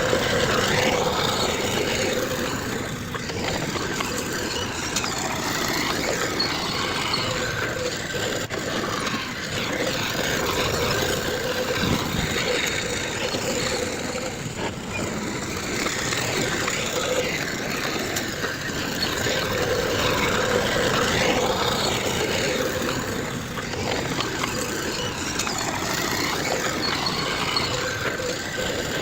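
Heavy earthmoving machinery engines running steadily, with a wavering engine note that rises and falls slightly.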